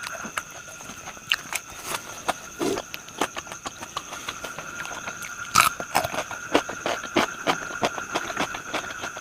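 Close-up chewing and biting of crispy fried pork intestine and liver, with many sharp crunches, the loudest about halfway through.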